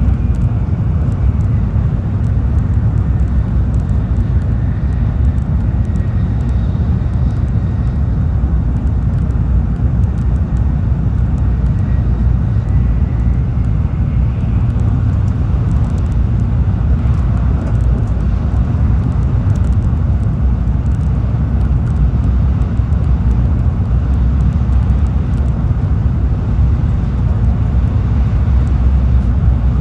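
Tokaido Shinkansen train running at speed, heard from inside the passenger car: a steady low rumble of wheels and running noise. A faint high whine runs through the first dozen seconds or so.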